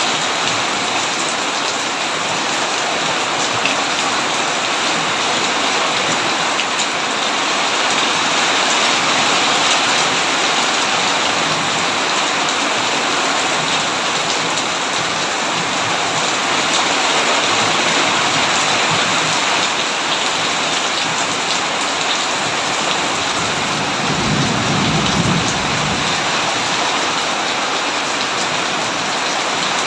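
Heavy rain pouring steadily on a tin roof. A low rumble of thunder rises and fades briefly about three-quarters of the way through.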